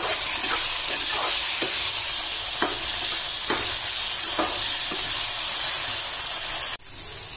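Eggplant, onion and tomato frying in hot mustard oil in a metal kadai, sizzling steadily, with a spatula stirring and scraping through them about once a second. The sizzle suddenly drops quieter near the end.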